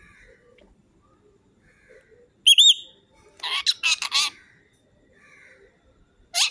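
Pet parrot whistling: a loud double-note whistle about two and a half seconds in, then a short burst of harsh squawky calls, and a quick rising whistle near the end, with soft chatter between.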